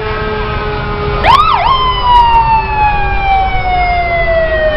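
Fire truck siren. About a second in it sweeps up, dips and rises once more, then winds slowly down in pitch, over a steady low rumble.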